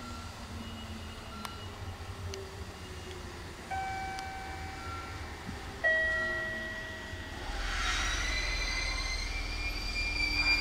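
Train sounds at a station: two separate ringing tones start sharply a couple of seconds apart and fade away. Then the noise of a train moving builds, with a high whine over it.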